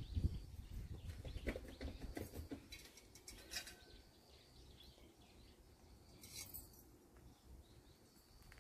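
Small birds chirping repeatedly, with a few louder calls about two to three seconds in and again past six seconds. A low rumble is heard in the first two seconds and fades.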